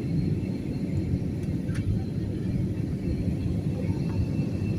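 Steady low rumble of a moving vehicle heard from inside, with a few faint ticks.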